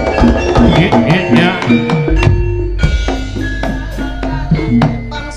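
East Javanese jaranan gamelan music: quick hand-drum (kendang) strokes over ringing metallophone notes, with a deep gong stroke about two seconds in that rings on.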